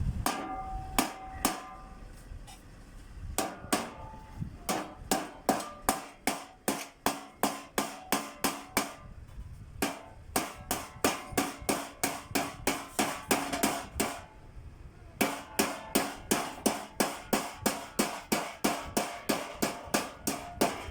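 A hammer striking sheet-metal duct in quick runs of blows, about three a second, each blow ringing briefly, with short pauses between the runs.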